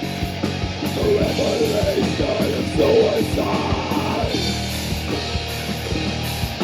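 Live band playing loud, distorted heavy rock, with electric guitar and drums. About four seconds in, the playing turns to steadier held notes.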